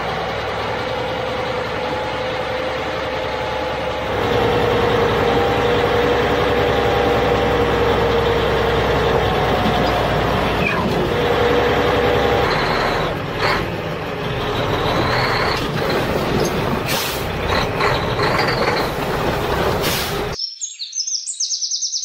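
Heavy truck engine running steadily, a whine that wavers in pitch over a low rumble, with a few short hisses like air brakes near the end. The sound cuts off abruptly shortly before the end.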